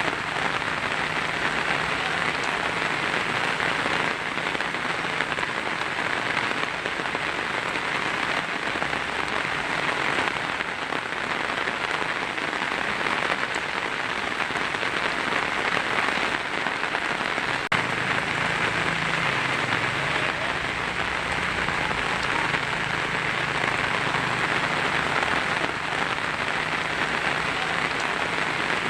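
Heavy rain falling steadily on a tin roof, a dense even patter with no break.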